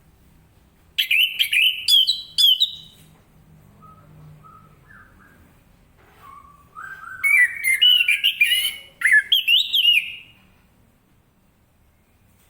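Orange-headed thrush singing: two loud bursts of quick, varied whistled phrases, with a few softer, lower notes between them.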